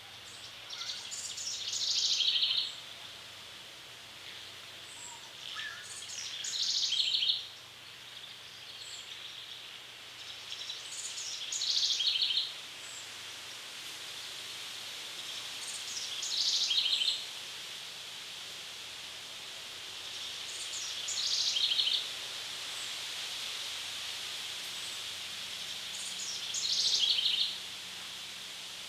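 A songbird repeating the same short song six times, about every five seconds. Each song grows louder and ends abruptly. A steady faint high hiss runs underneath.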